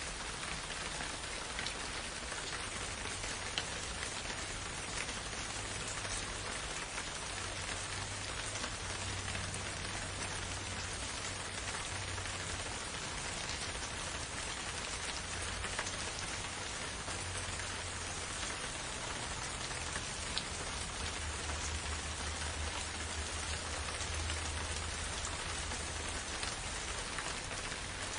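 Steady, even rain falling, with scattered individual drops ticking on a surface and a faint low rumble that swells and fades.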